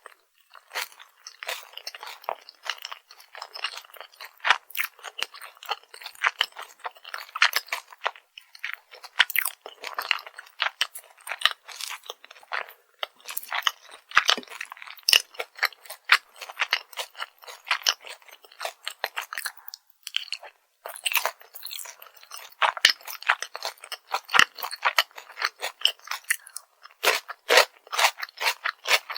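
Close-miked crunching and chewing of crispy fried food: a dense run of crunchy bites and chews, with two short lulls.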